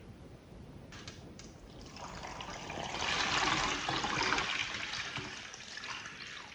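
Water running and splashing, swelling up over a couple of seconds and then easing off, with two faint clicks just before it.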